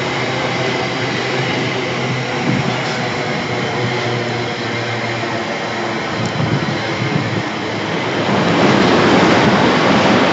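Electric trains: a steady electric hum with whining tones, then from about eight seconds a Heathrow Express pair of Class 387 Electrostar units passing through, their wheel and air noise growing louder.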